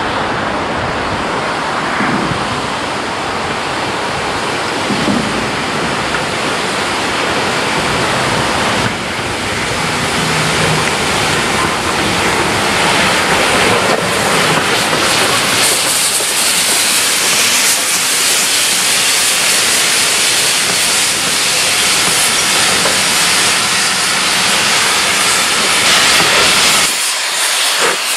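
Steam locomotive letting off steam in a continuous loud hiss. The hiss grows stronger and harsher about halfway through.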